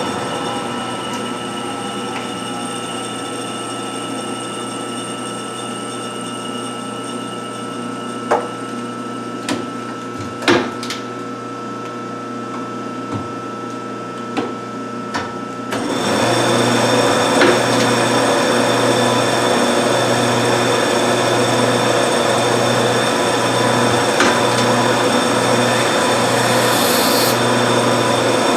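1952 Wade 7 turret lathe running with a steady machine whine. A few sharp clicks and knocks come through the middle. About halfway through, the sound turns louder and rougher, with a low throb pulsing about once a second.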